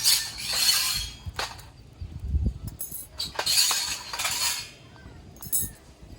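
Hard objects clinking and scraping as they are handled, in two longer bursts about three seconds apart and a short one near the end.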